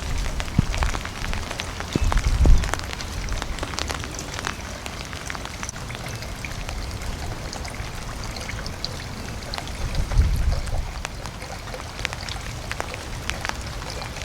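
Wind gusting outdoors, with low rumbling buffets on the microphone in the first few seconds and again about ten seconds in, over a steady hiss dotted with many small scattered ticks.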